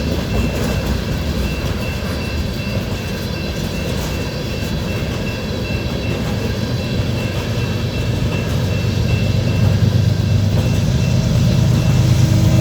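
Freight train of covered hopper cars rolling past, a steady rumble and rail noise that grows louder over the last few seconds. A railroad crossing bell rings steadily throughout.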